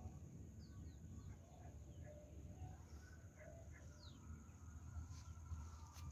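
Faint bird calls in the open air: a few short, falling chirps and some small lower calls over a low steady rumble.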